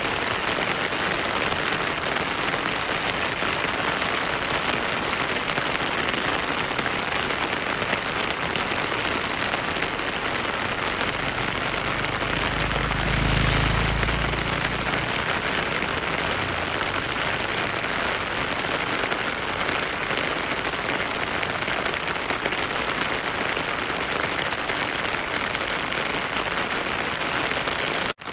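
Heavy rain falling steadily, a dense even hiss. A low rumble swells and fades about halfway through, and the sound cuts out for an instant near the end.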